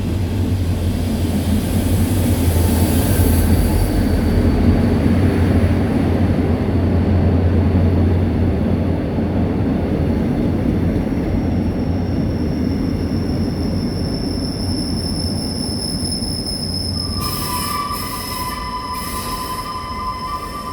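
Diesel-locomotive-hauled Saemaul-ho passenger train pulling into the station: a steady low diesel rumble with the carriages rolling past, and high-pitched brake and wheel squeals setting in during the second half as the train slows.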